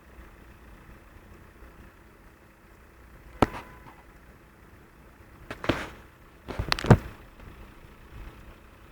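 Three sharp knocks or cracks a couple of seconds apart over a steady low rushing noise, the last one doubled and the loudest.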